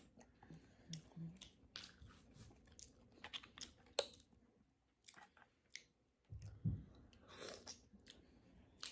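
Close-up mouth sounds of oysters in sauce being chewed: scattered wet smacks and clicks, with a short pause in the middle and a louder smack about two-thirds of the way in.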